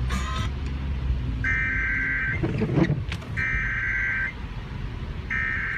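Emergency Alert System data header: three identical buzzing, screechy data bursts, each about a second long and about two seconds apart, signalling the start of a broadcast tornado warning. A steady low rumble runs underneath, with a brief whoosh between the first and second bursts.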